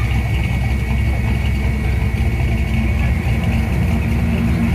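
A car engine idling with a steady deep rumble, alongside a thin constant high-pitched whine.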